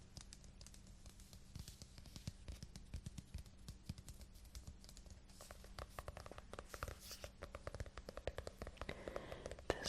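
Rapid fingertip tapping on a book's cover and spine: many quick light taps, getting busier and a little louder in the second half.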